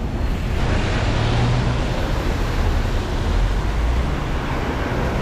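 Steady traffic on a busy avenue in the rain: a low engine rumble under a hiss that fills in about half a second in.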